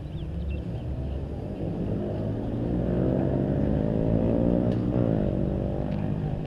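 Honda Grom minibike's 125 cc single-cylinder engine climbing steadily in pitch and getting louder for about three seconds as it accelerates, then falling in pitch about five seconds in.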